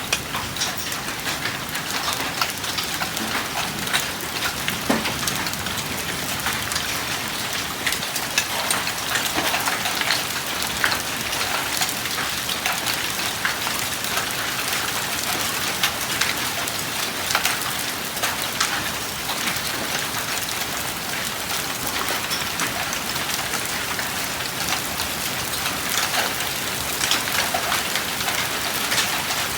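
Hailstorm with heavy rain: a steady downpour hiss peppered with many sharp ticks of hailstones striking hard surfaces.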